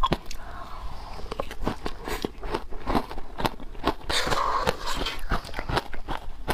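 Bites into wet frozen matcha ice: a quick, irregular run of sharp cracks and crunches, several a second, with a longer grinding crunch about four seconds in.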